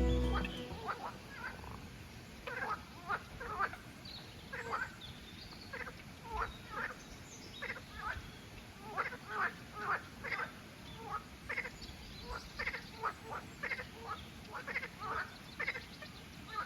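Frogs croaking: short calls repeated about once or twice a second, often overlapping, over a faint background.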